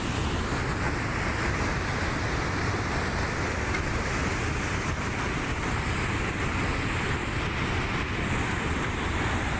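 A torrent of rainwater and volcanic debris (a lahar) rushing past as a steady, dense noise without letup.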